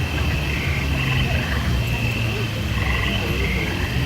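A dense chorus of frog-like croaks and chirps over a steady low rumble, the rumble coming from the opening of the Mirage volcano show.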